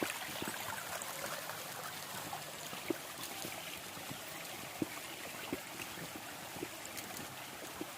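Shallow stream water running and trickling steadily over a sloping rock face at a small waterfall, with a few short sharp knocks scattered through it.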